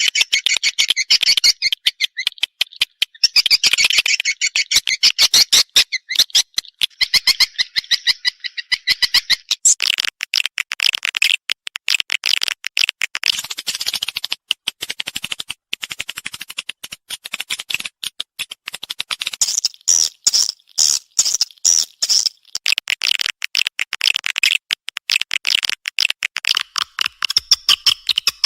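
Swiftlet calls from a swiftlet call track: rapid, high-pitched chirping trills made of fast clicking pulses, running almost without a break and changing pattern about a third and two-thirds of the way through.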